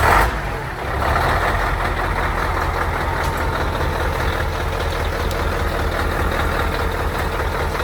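Scania truck's diesel engine firing up with a loud burst, then settling into a steady idle from about a second in. It is running to build air pressure and release the spring brakes.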